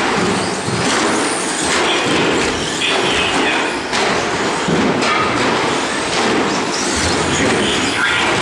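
Radio-controlled short course trucks racing: a steady loud rush of motors and tyres, with short whines that rise and fall as they throttle through the track.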